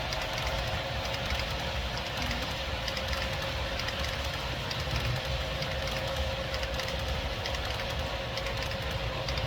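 Two Santa Fe steam locomotives hauling a train of refrigerator cars, running steadily: a continuous rumble with a constant tone held throughout.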